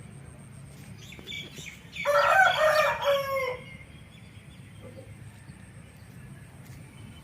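A rooster crowing once, about two seconds in, for about a second and a half, dropping in pitch at the end.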